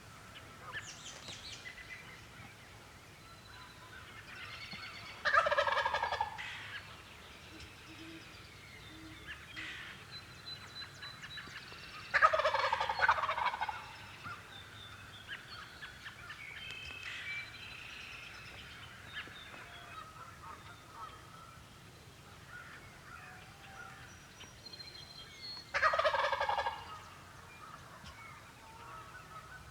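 Wild turkey tom gobbling three times, each gobble about a second long and several seconds apart, with faint songbird chirps in between.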